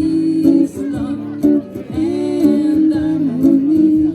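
A live song: a voice singing a long, wavering, sliding melody over plucked guitar.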